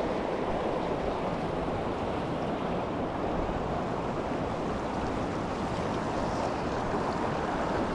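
Small mountain creek rushing steadily.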